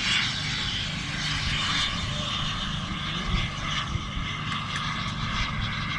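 Miniature turbine engine of a radio-controlled jet in flight: a steady jet hiss over a low rumble.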